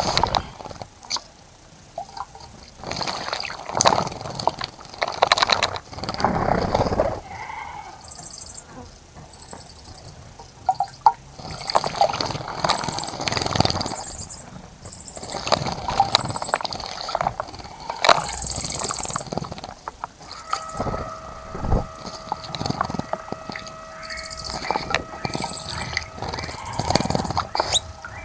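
Small birds splashing in a bird bath in repeated bursts of a second or two, with short high chirps between them. About two-thirds of the way in, a steady two-note hum starts and keeps going.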